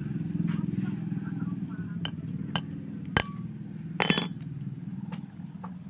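Sharp metallic clinks and taps of hand tools on metal, the loudest about three seconds in, with a brief ringing clatter about four seconds in. Under them runs a steady low engine hum that fades near the end.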